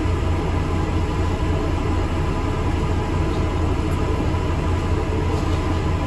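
ADL Enviro400 MMC double-decker bus running, heard from inside the passenger cabin: a steady low engine and road drone with faint higher hums.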